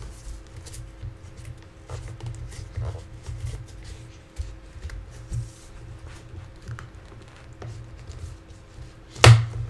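Handling noises as a wooden stick is twisted to wind bank line cord tight around crossed PVC pipes: scattered light rubbing, creaking and tapping, with one sharp knock about nine seconds in.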